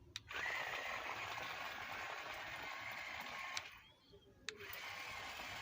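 Small DC motor running with a steady whine, switched on with a click. It cuts out briefly just before four seconds in and clicks back on.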